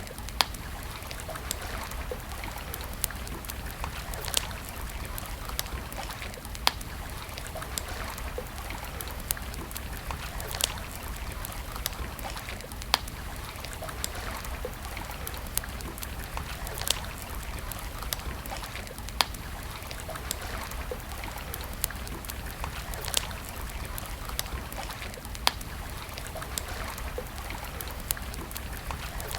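Wood campfire crackling: sharp pops and snaps, the louder ones every two to three seconds, over a steady hiss.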